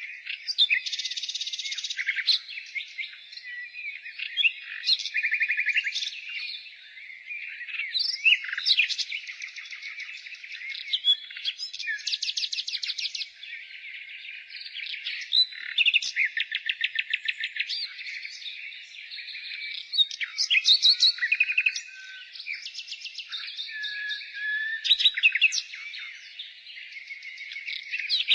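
A nightingale singing a varied song of phrases built from fast runs of repeated notes, trills and whistles, with short pauses between phrases.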